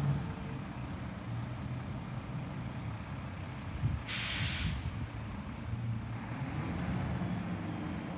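Garbage truck engine running low and steady, with one short, sharp hiss of air brakes released about four seconds in.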